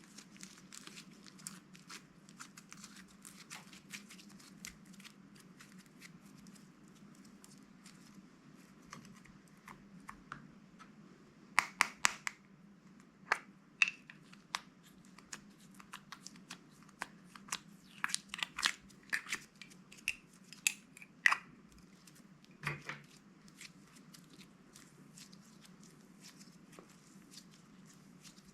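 Crisp crinkling and clicking from hands handling slime-making bags and crunchy materials, with two clusters of louder sharp snaps and crackles in the middle, over a faint steady low hum.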